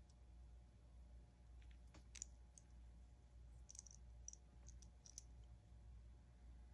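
Faint, scattered small clicks of the plastic parts of a vintage G.I. Joe action figure being handled and fitted during a repair, over a low steady room hum.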